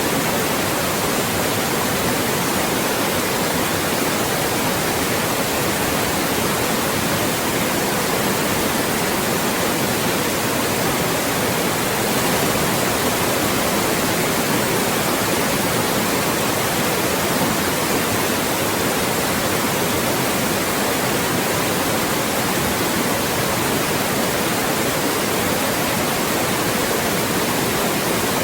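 Loud, steady white noise: an even hiss across the whole range, unchanging, used as a speech-masking sound.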